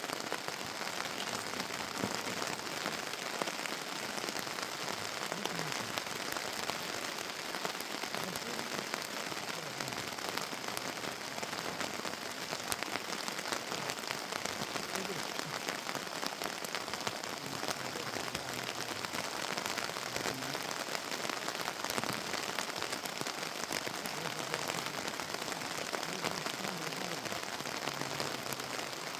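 Heavy rain falling steadily, an even hiss laced with many sharp drop ticks.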